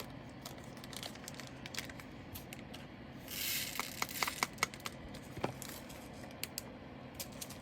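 Small plastic bags and resin diamond-painting drills being handled: light clicks and taps throughout, with a short crinkling rustle of plastic a little over three seconds in.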